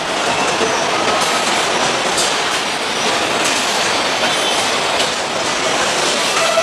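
Steady din of factory machinery, with continuous mechanical clatter and brief high-pitched squeals.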